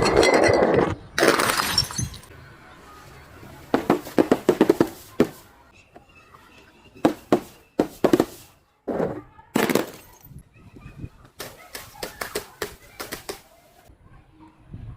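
Glass bottles and other crunchy objects being crushed and broken: a string of sharp cracks and crunches that come in clusters of rapid crackling, with short pauses between.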